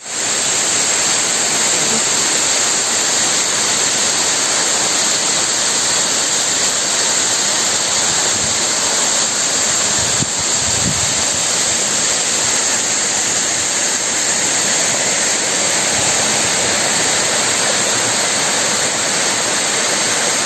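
Steady, loud rush of a tall waterfall, the water falling and churning without let-up.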